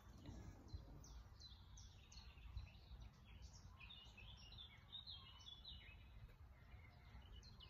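Near silence with faint bird chirping: many short, high chirps come and go throughout, over a low background rumble.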